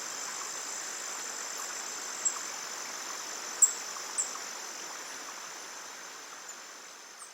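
Steady high-pitched chorus of insects such as crickets, with a few short sharp high chirps a couple of seconds in, fading out near the end.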